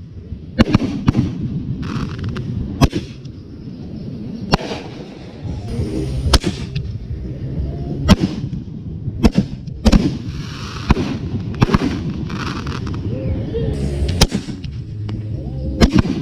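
Fireworks display: about a dozen loud bangs from bursting aerial shells at irregular intervals, with stretches of hissing crackle between them.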